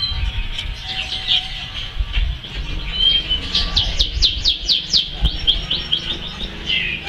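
A small bird singing: scattered high chirps, then a quick run of about eight down-slurred whistled notes midway, followed by more chirps, over a low rumble.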